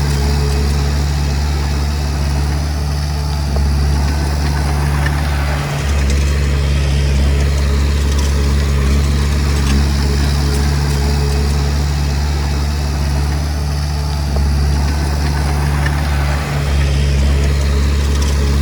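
Komatsu D20P bulldozer's diesel engine running steadily, with two brief dips in its note.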